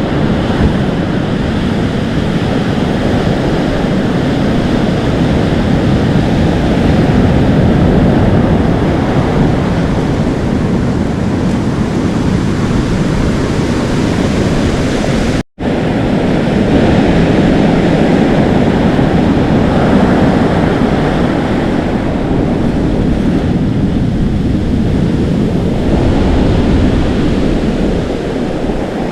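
Atlantic Ocean surf: waves washing in and foaming on the shore in a continuous rush that swells and eases, with wind blowing across the microphone. The sound cuts out for an instant about halfway through.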